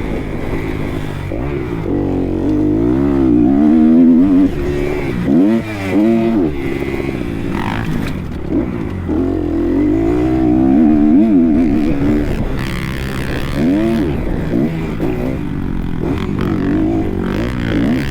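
Kawasaki KX250 motocross bike engine revving up and falling back over and over as it is ridden hard round a track, pitch climbing under throttle and dropping between gears and corners. The throttle shuts off briefly about five seconds in, with a few short knocks from the bike along the way.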